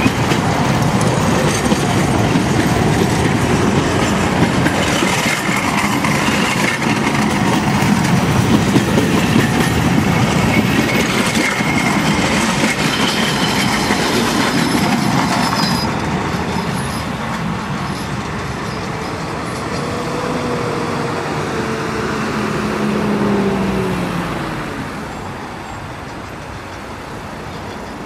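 Zillertal Railway narrow-gauge passenger coaches rolling past close by, their wheels rumbling and clicking over the rail joints. The sound drops about halfway through and fades further near the end as the train moves away.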